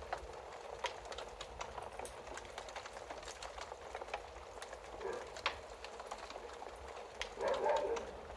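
Wood fire crackling: scattered sharp pops and snaps over a low steady hiss, with two louder wavering sounds, a brief one about five seconds in and a longer one near the end.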